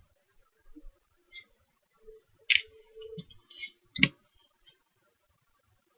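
A few light clicks and taps from handling a bathroom scale, the sharpest about two and a half seconds in and again about four seconds in.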